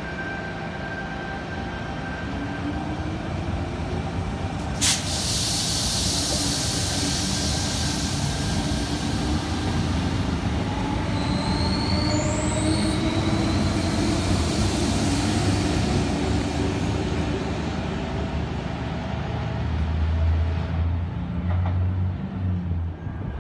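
Double-deck electric passenger train moving along a station platform with steady rolling noise. About five seconds in there is a sharp click followed by a few seconds of hiss, and around twelve seconds a few brief high wheel squeals. Near the end a low hum rises as a second train approaches.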